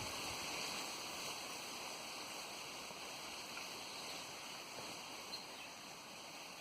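Steady wind rushing, a broad even hiss.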